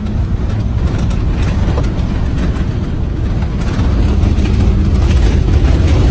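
Loud, steady low rumble of a bushfire front and its wind around a fire truck, mixed with the truck's engine running, growing louder toward the end. Scattered sharp crackles and ticks cut through the rumble.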